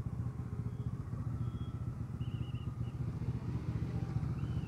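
Motorcycle engine running steadily with a low, even, rapid pulsing.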